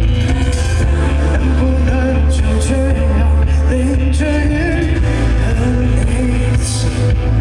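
Live band playing an indie-pop song, with heavy bass and drums, melodic lines and cymbal crashes.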